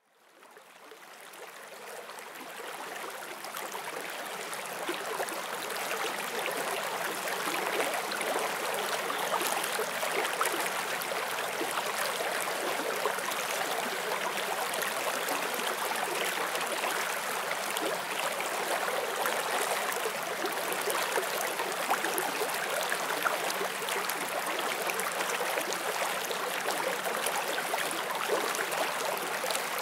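Forest stream flowing over rocks: a steady rush and babble of water that fades in over the first few seconds.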